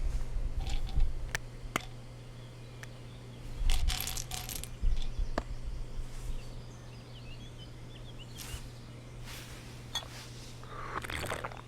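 Small hard objects clicking and clinking as they are handled, with a few short, louder rustling bursts, over a low steady hum.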